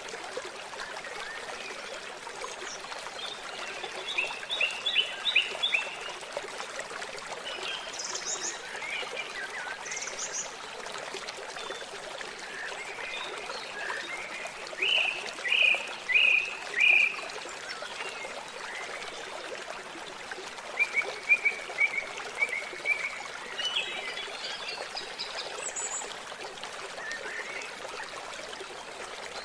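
Lakeside water trickling steadily, with animal calls in short rapid series of chirps, three times.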